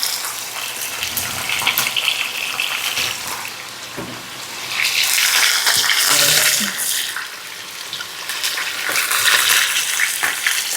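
Beefsteaks sizzling in hot oil in a pot, a steady hiss with scattered pops that swells louder for a couple of seconds about halfway through.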